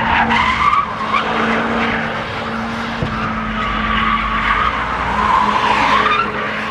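A car drifting: the tyres squeal in long, wavering screeches over the steady note of its running engine.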